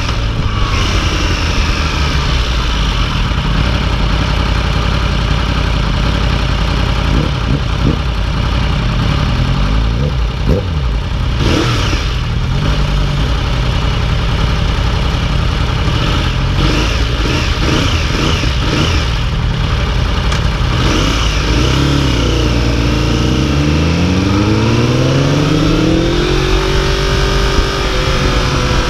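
2015 Yamaha YZF-R1's inline-four engine running under way, with wind rushing over the microphone. About two-thirds of the way through, the engine pulls up through the revs, its pitch rising steadily for a few seconds, then holds.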